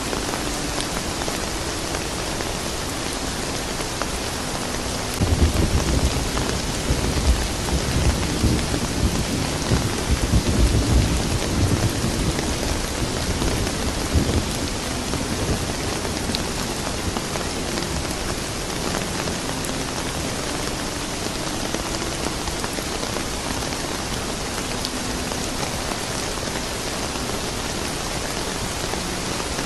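Steady rain falling, with a long low rumble of thunder that starts suddenly about five seconds in, swells and dies away after about nine seconds.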